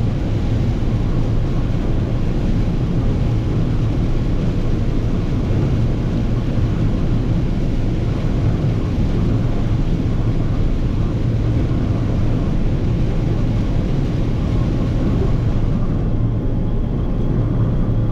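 Massey Ferguson 9690 combine running steadily while shelling corn, a constant low engine and machinery drone.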